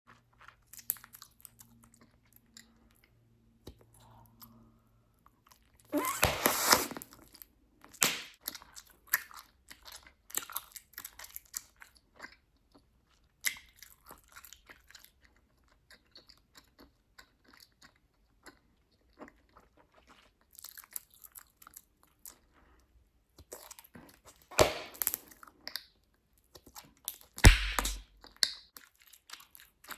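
Bubblegum being chewed close to the microphone, with wet snaps and small pops throughout. Several louder pops come near the quarter mark and twice near the end, as bubbles burst or are sucked in.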